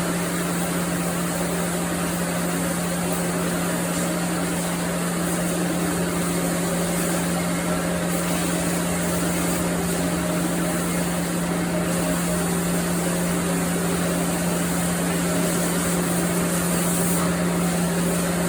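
Sawmill machinery running steadily, a constant hum with a strong low tone.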